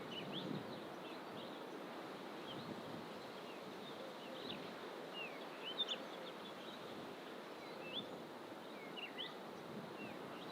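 Several wild birds calling, many short high chirps and slurred whistles scattered throughout, over a steady background rush.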